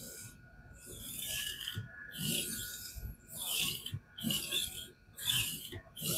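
A King whetstone on a fixed-angle guided sharpener rasping along a clamped knife edge in repeated strokes, about one a second, coming slightly faster toward the end.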